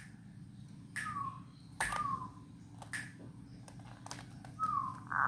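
Zebra dove (perkutut) calling: sharp clicks and three short falling cooing notes, each about a second or two apart.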